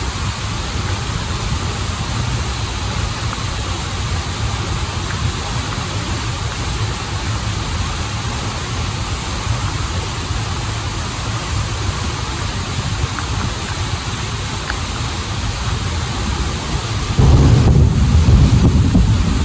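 Steady rushing of a waterfall and stream, a full noise with a deep low rumble. About 17 seconds in it abruptly turns louder and deeper.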